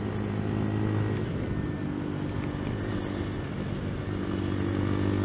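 CFMoto Papio's small single-cylinder engine running at a fairly steady speed on the move, over a steady hiss of road and wind noise on a wet road.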